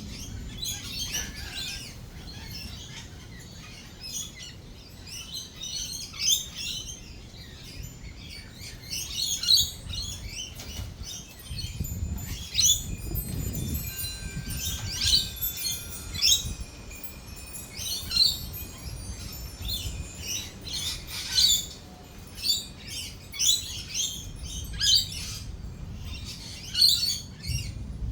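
A flock of lorikeets calling: a busy run of sharp, shrill chirps and screeches, some very loud, with a low rumble of thunder swelling about halfway through.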